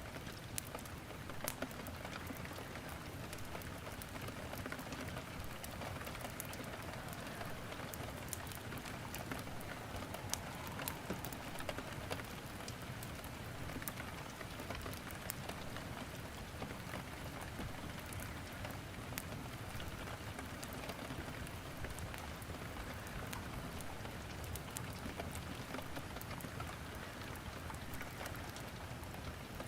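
Steady rain with firewood crackling in a fireplace: a continuous hiss of rain under many sharp, scattered pops and clicks.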